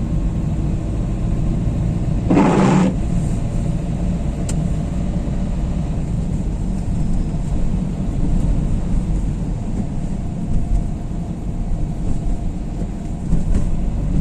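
Diesel Renault Kangoo driving in city traffic, heard from inside the cabin: steady engine and road noise, with a short whoosh about two and a half seconds in.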